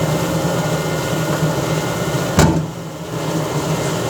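Bakery dough sheeter running with a steady low mechanical hum and noise from its rollers, which seems to come from the upper roller. A single sharp knock about two and a half seconds in.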